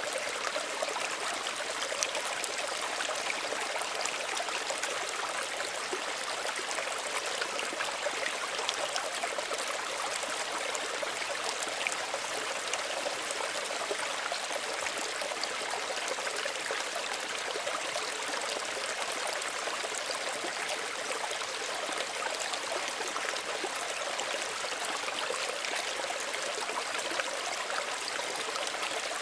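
Small stream running steadily over stones, a continuous babble and trickle of water.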